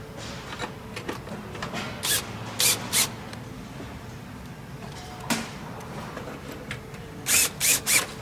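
Steel panels of a wood-burning stove being fitted back on and fastened: a series of short metallic scrapes and clatters, a few spread through the first half and three quick ones close together near the end.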